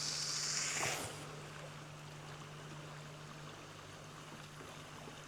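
A steady high-pitched hiss that cuts off about a second in, then the faint, even rush of flowing river water with a low steady hum under it.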